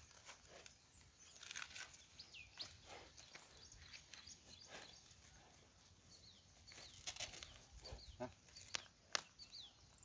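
Quiet outdoor ambience: faint, short, high falling chirps of birds scattered throughout, with a few light clicks and rustles.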